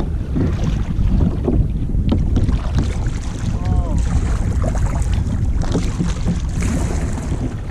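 Wind buffeting the microphone with a steady low rumble, over water around a kayak. A brief pitched sound comes a little past halfway.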